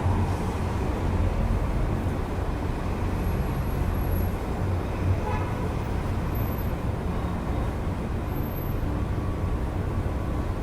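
Steady city road traffic heard through an open window: a continuous low rumble of passing cars and buses, with a short vehicle horn toot about five seconds in.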